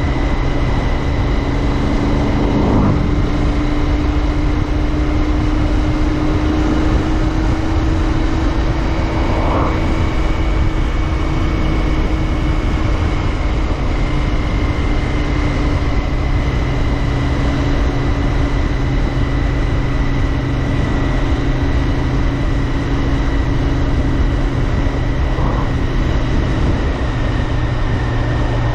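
Royal Enfield Interceptor 650's 648 cc parallel-twin engine running at a steady cruise under way, its note rising a little and then slowly easing off, with wind and road rush over it.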